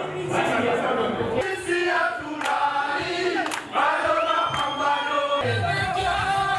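A crowd of people singing and chanting together.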